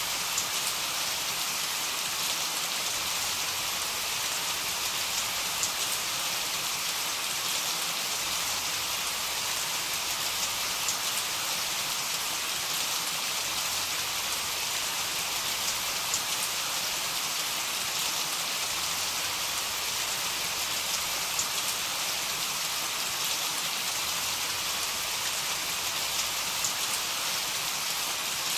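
Heavy rain falling steadily: a dense, even hiss of drops, with the odd sharper tick of a single drop.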